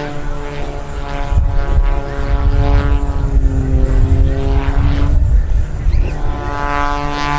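MXS-RH aerobatic monoplane's 540 cubic inch piston engine and propeller running hard through a maneuver, a steady drone whose pitch sinks and then rises again, with a heavier deep rumble through the middle.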